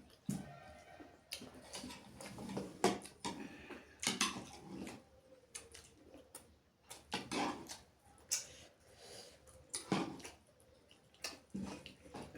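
Close-up eating sounds: chewing and lip smacking on chicken curry and rice, coming in irregular short bursts.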